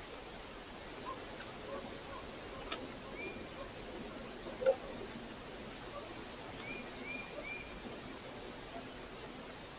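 Steady hiss of a trail camera's microphone, with a few short, faint, high bird call notes: one about three seconds in, then three in quick succession near the end. A single sharper tap or knock comes about halfway.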